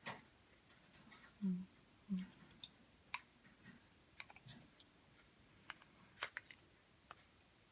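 Light, irregular clicks and taps of small plastic Play-Doh toy pieces and pots being handled.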